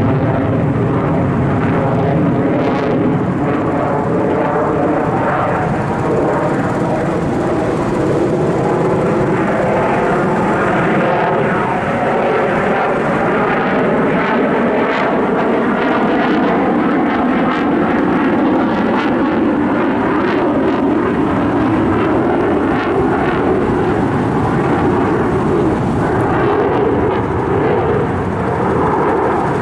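Airplane engine running steadily as an aircraft flies a display, its pitch drifting slowly up and down.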